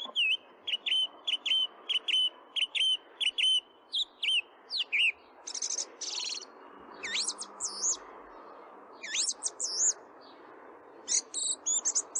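A songbird singing: a run of short repeated whistled notes, about two a second, then varied swooping whistles and quick trills.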